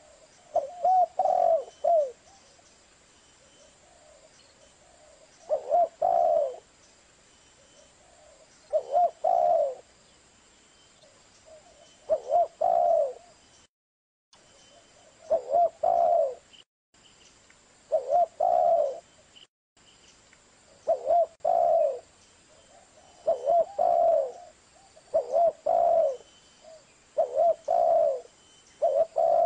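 Zebra dove (perkutut) cooing: short phrases of a few quick, low, pulsing coos, repeated about every two to three seconds. There are a few brief silent dropouts in the recording.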